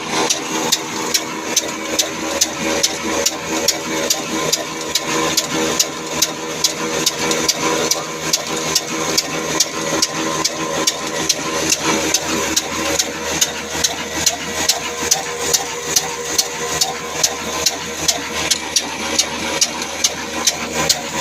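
Old 24 hp desi black diesel engine of the Ruston type running steadily, with a sharp, regular beat at about two strokes a second.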